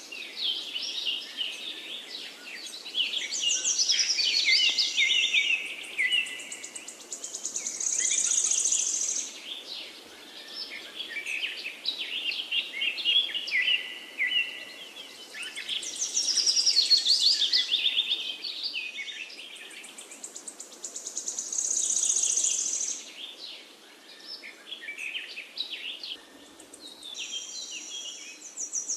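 Several songbirds chirping and trilling over a steady forest background hiss, with a high buzzy trill now and then. The same run of calls comes round again about every thirteen seconds.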